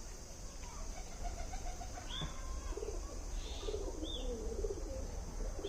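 Doves cooing in low, wavering calls, with a few short, high chirps from another bird.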